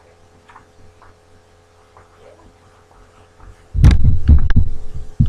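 Near quiet with faint short murmurs, then from about four seconds in a run of loud, low thumps and knocks with a few sharp clicks.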